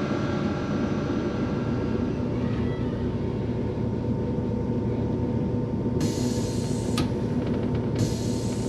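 Cabin noise of a CrossCountry Voyager diesel multiple unit under way: a steady rumble of the underfloor engine and the wheels on the rails. About six seconds in a high hiss starts suddenly, breaks off with a click a second later, and comes back near the end.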